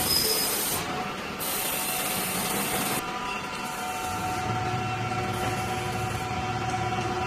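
Pneumatic steel mesh welding machine running: steady industrial machine noise with a high hiss that cuts off about three seconds in, after which a steady hum with several held tones carries on.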